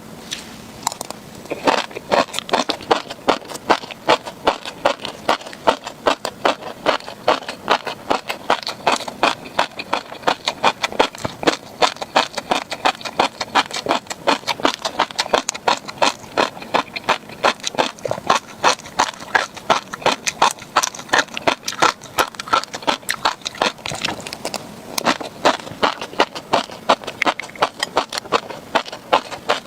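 Close-miked chewing of tobiko (flying fish roe), the tiny eggs popping and crunching in a rapid, irregular stream of sharp clicks.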